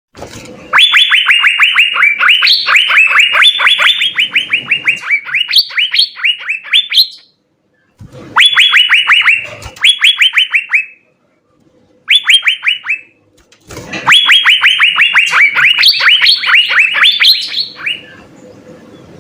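Asian fairy-bluebird (cucak biru) singing: rapid runs of short whistled notes, each sliding downward, several a second, in four bursts separated by brief pauses, the first and last bursts the longest.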